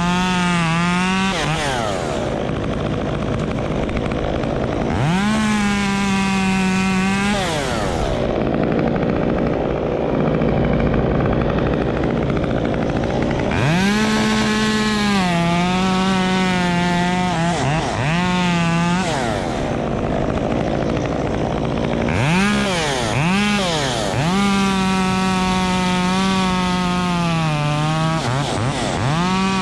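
Gas chainsaw revved to full throttle in four long bursts while cutting wood, falling back to idle between cuts, with a couple of quick throttle blips before the last cut.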